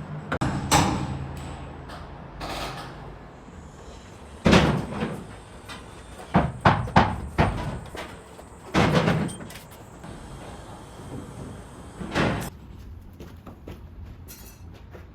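Irregular knocks and thuds with some scraping: single hard knocks spaced a few seconds apart, a quick cluster of four or five about six to seven seconds in, and a last knock about twelve seconds in.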